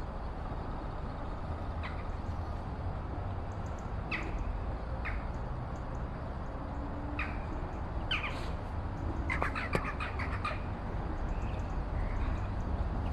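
Scattered short bird calls: single notes a few seconds apart and a quick run of notes about nine to ten seconds in, over a steady low wind rumble.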